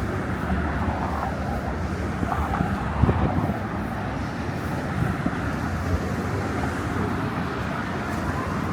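Steady road traffic noise of passing cars, with a brief knock about three seconds in.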